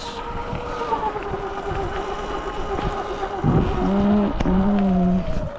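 Motorcycle engine running on the move, a steady note that slowly falls, then louder with a strong low note from about three and a half seconds in until shortly before the end.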